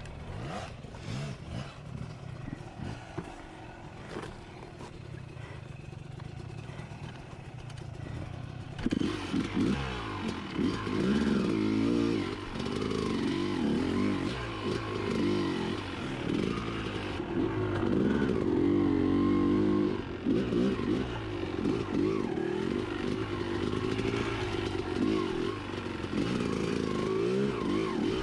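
Motorcycle engine running low and steady with a few clicks, then from about nine seconds in revving hard, its pitch rising and falling again and again.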